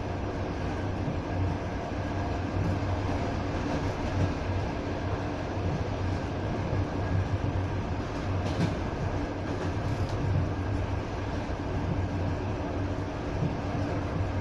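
Passenger train running along the track, heard from a carriage: a steady rumble of wheels on rails with a low hum and a few faint clicks about halfway through.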